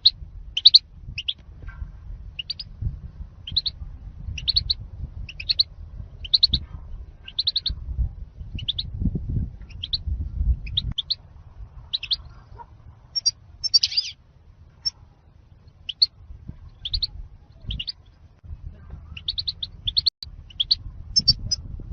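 European goldfinch song in the strong 'zilzal' style, a run of short, sharp chirping notes about twice a second with a denser flurry about two-thirds of the way in. A low rumbling noise runs underneath.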